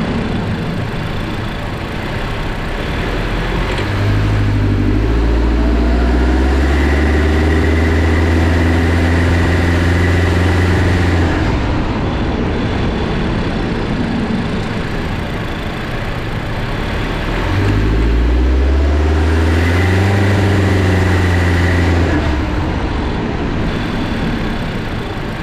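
Honda Jade 1.5 turbo engine, heard from inside the engine bay beside the accessory belt, accelerating hard twice from low speed. During each pull a high swishing, hissing whine comes in on top of the rising engine note. The owner suspects it is the accessory belt slipping or a pulley bearing.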